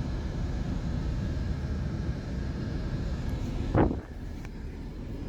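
Car driving along, a steady low rumble of road and engine noise, with a single short thump a little under four seconds in.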